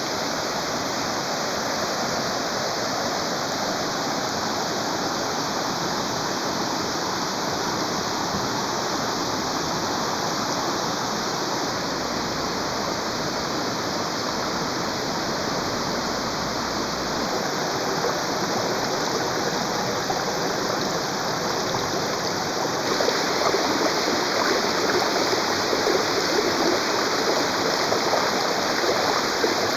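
Waterfall rushing steadily, getting a little louder about three-quarters of the way through.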